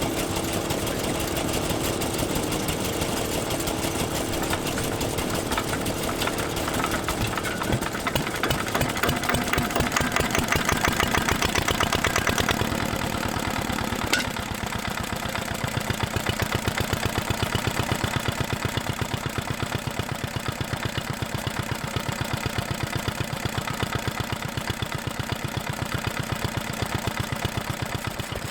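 Old Japanese stationary engines (hatsudoki) running, with a steady, rhythmic knock of firing strokes.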